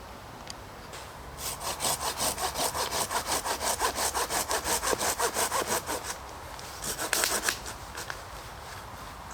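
Hand saw cutting through wood in quick, even back-and-forth strokes, about four a second, for several seconds; after a short pause comes a brief second burst of strokes.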